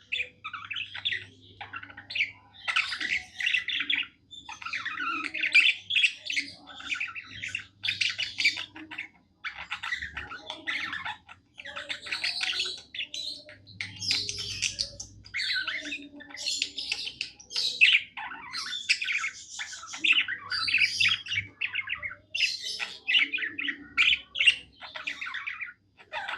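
Budgerigar warbling: a long, rapid run of chirps, chatters and squawky notes in short phrases broken by brief pauses.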